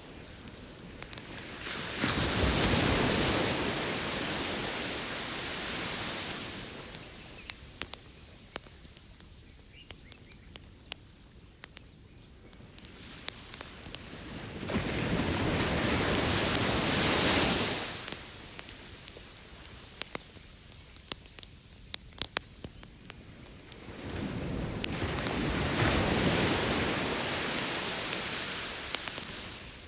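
Ocean waves breaking on a beach, three surges of surf that each swell up and wash away over a few seconds. The small sharp crackles and pops of a burning wood campfire run through it.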